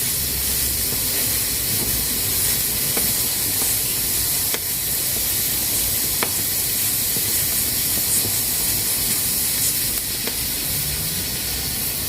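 Pressure cooker steadily hissing as steam escapes from its valve, with a few faint sharp clicks scattered through it.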